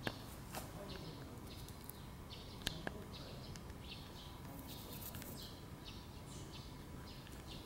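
Small birds chirping faintly in short, repeated calls over a low outdoor background, with a couple of light taps about a third of the way in.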